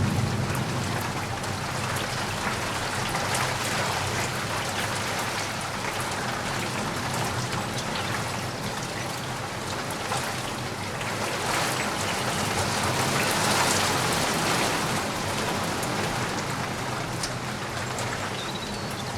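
Steady rain falling, with individual drops ticking close by. The tail of a low thunder rumble dies away at the very start.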